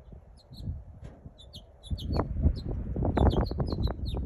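Many small backyard birds chirping in short, quick high notes. From about two seconds in, wind buffets the phone's unshielded microphone with a loud low rumble that drowns the lower sounds.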